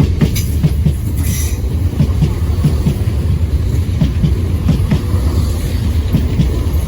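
Southern Class 171 Turbostar diesel multiple unit passing close by: a steady low diesel rumble, with the wheels clicking over rail joints in a quick, uneven rhythm.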